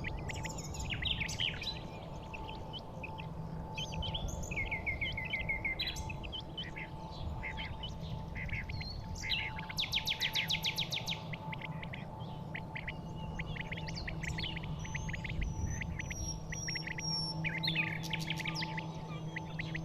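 Birds chirping and trilling, several short calls overlapping, with a fast rapid trill about ten seconds in, over a steady low hum.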